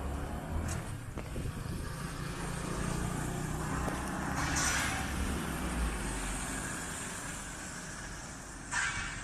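A motor vehicle passing on a wet street: engine rumble and tyre hiss build to a peak about five seconds in, then fade. A second short hiss comes near the end.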